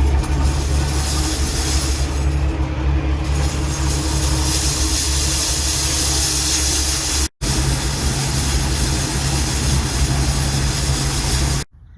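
Case 1594 tractor's diesel engine running steadily under load, with a constant hiss over the top. The sound drops out for an instant about seven seconds in and cuts off abruptly near the end.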